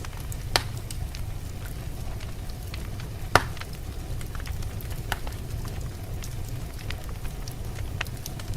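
Wood fire crackling with scattered small clicks and two loud sharp pops, over a steady low rumble of blizzard wind.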